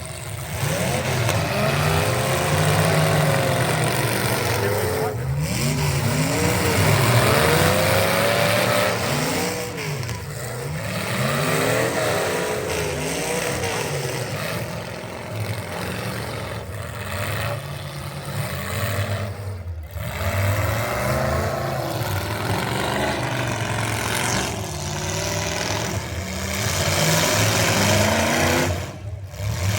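Several racing truck engines revving up and down together, their pitch rising and falling again and again as they accelerate and back off, over steady road and mechanical noise.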